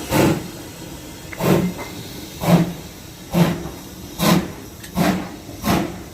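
Steam locomotive exhaust chuffing, the beats coming steadily quicker as the engine picks up speed pulling its train away, over a steady hiss of steam.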